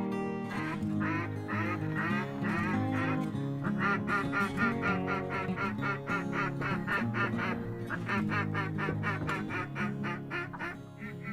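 Duck quacking in rapid runs of about four or five quacks a second, with short breaks, over background music with steady low notes.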